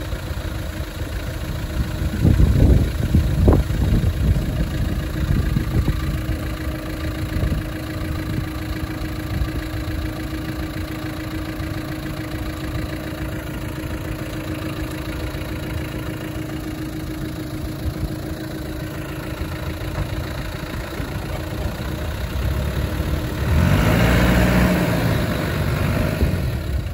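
Off-road 4x4 engine running at idle with a steady low rumble, growing louder for a few seconds about two seconds in and again near the end.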